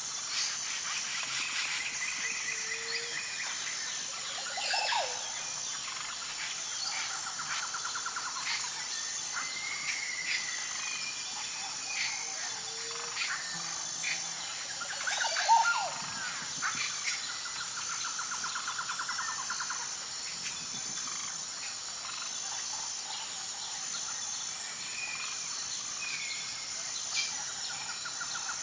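Forest chorus: a steady high-pitched insect drone with scattered bird calls and trills, and a loud rising call about five seconds in and again, louder, about fifteen seconds in.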